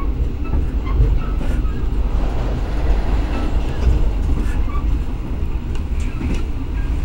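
Argo Wilis express passenger train running at speed, heard from inside the carriage: a steady low rumble of wheels on rail, with a few faint clicks from the track.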